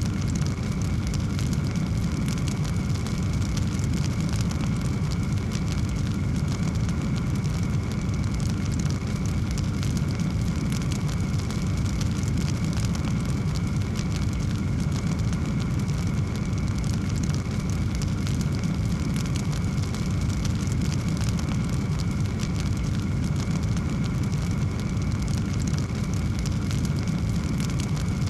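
Wood fire in a fireplace crackling continuously, with many small pops and snaps over a steady low rumble of flame.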